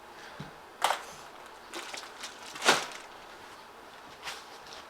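Brief handling noises as whole dressed chickens are moved on and off a kitchen scale: two short knocks or rustles about two seconds apart, with fainter ones between.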